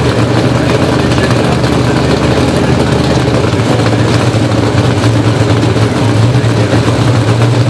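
Pro Stock drag cars' V8 engines idling loudly and steadily, with a choppy, uneven low beat and no revving.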